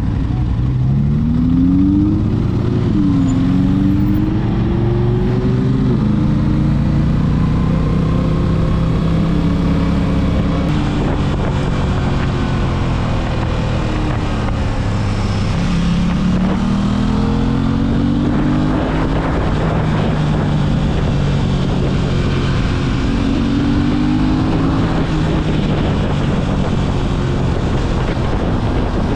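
Aprilia RS 660's parallel-twin engine pulling hard, its pitch climbing and then dropping sharply at an upshift about three seconds in. It eases off and picks up twice more, with wind rushing over the microphone.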